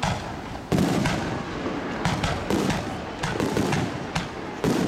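Fireworks bursting in quick succession: about ten sharp bangs in under five seconds, with rumble and crackle between them.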